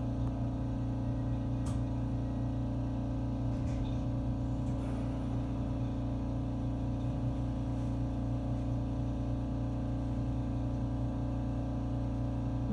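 A JR 313-series electric train running at steady speed, heard from inside the carriage: a steady hum of motors and wheels on the rails, with a couple of faint clicks.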